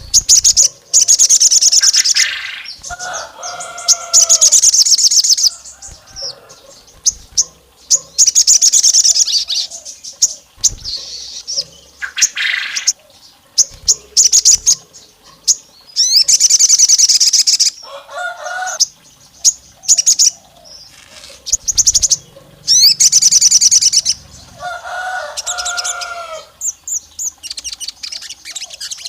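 Sogon songbird singing: loud, high, rapid trilling phrases of a second or two, repeated every few seconds with short gaps, some joined by lower two-tone notes.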